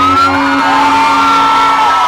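Live rock band playing amplified through a club PA, holding a long sustained note, with audience members whooping over it.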